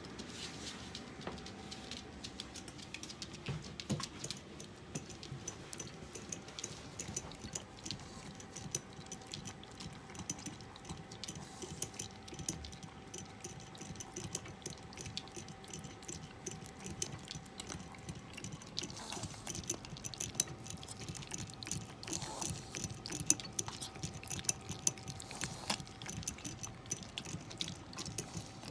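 A dog lapping water from a bowl, a quick, steady run of small wet laps.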